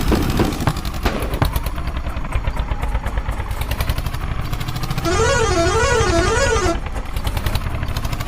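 Tractor engine running with a fast, rattling beat. About five seconds in, a warbling horn sounds for nearly two seconds, its pitch rising and falling about twice a second.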